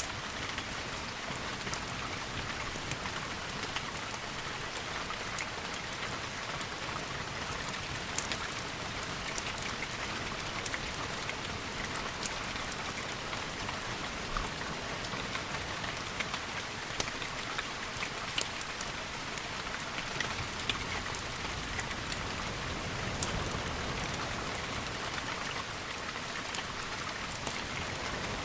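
Steady rain falling, a continuous hiss with many scattered sharp drop ticks. A low rumble swells briefly in the last third.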